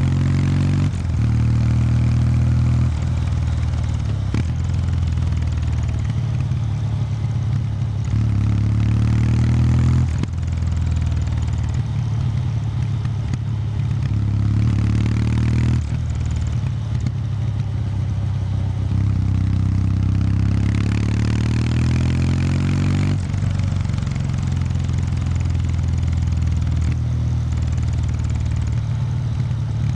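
Kawasaki W800 Street's 773 cc air-cooled parallel-twin engine through its stock exhaust while riding. The note climbs under throttle and drops back sharply about four times as the revs fall.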